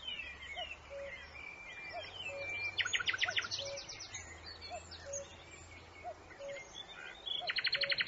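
Songbirds chirping and whistling, with two rapid trills of quickly repeated high notes, one about three seconds in and one near the end, over a faint low call repeating steadily.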